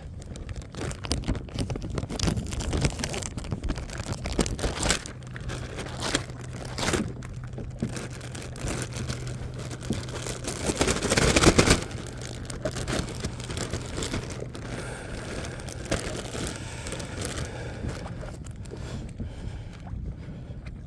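Rustling, crinkling and light knocks of gear being handled close by, with a louder rustle about eleven seconds in.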